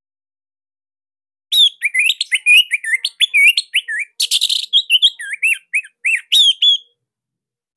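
Orange-headed thrush (anis merah) singing a fast, varied phrase of short whistled notes, with one harsh scratchy note partway through. The song starts about a second and a half in and stops abruptly about a second before the end.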